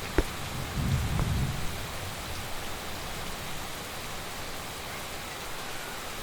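Heavy rain falling steadily, with one sharp tap just after the start and a short low rumble of thunder about a second in.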